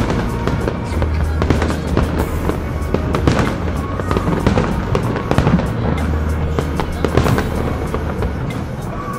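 Aerial fireworks bursting overhead: a dense run of bangs and crackles, with the loudest booms a little after two seconds, about three and a half seconds in, and around seven seconds in.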